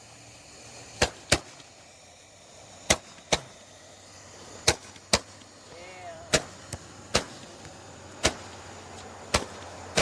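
Sharp firework pops, mostly in pairs, recurring about every two seconds over a faint steady hum.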